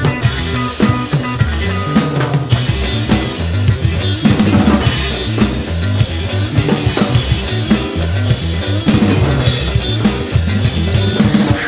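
Drum kit played along to a recorded rock song, with bass drum, snare and rimshot hits over the dense backing track, recorded on a phone.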